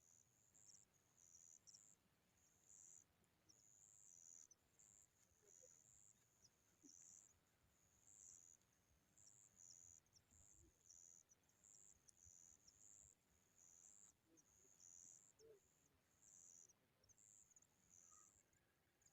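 Faint high-pitched insect chirping, short uneven trills repeating about one to two times a second.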